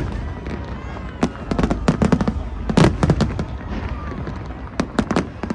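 New Year fireworks exploding in irregular volleys of sharp bangs, clustered about a second and a half in, around three seconds in, and near the end.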